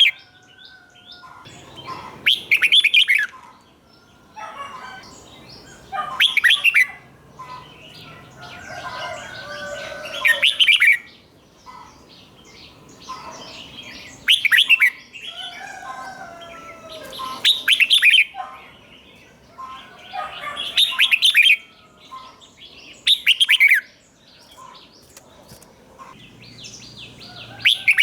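Red-whiskered bulbul singing: short, loud, quick phrases about every three to four seconds, with softer twittering between them.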